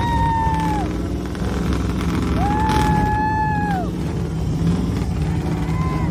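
Vehicle horns honking: two long blasts of about a second and a half each, the pitch bending up as each starts and down as it stops, then shorter honks near the end, over a steady rumble of engines.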